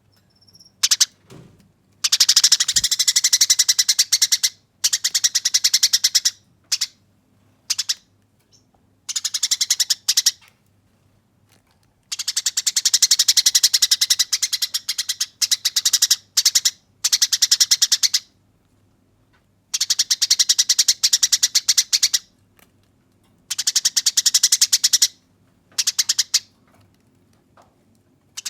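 Eurasian tree sparrow (burung gereja) in fighting mood, giving a harsh, rapid, rolling chatter. The chatter comes in bursts of one to six seconds separated by short pauses.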